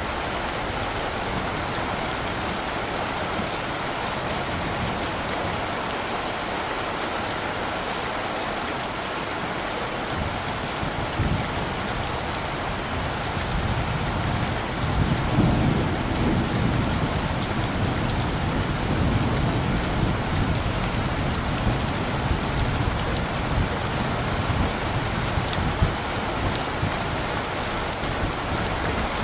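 Steady rain falling, with a low rumble of light thunder swelling about halfway through.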